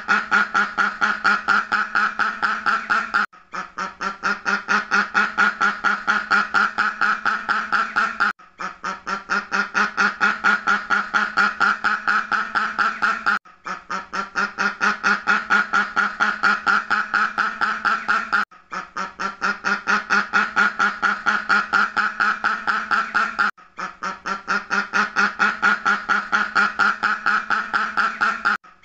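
Ducks quacking in a fast, steady run of many quacks a second. The run stops for a moment about every five seconds and starts again, building up over the first second each time, as a looped recording.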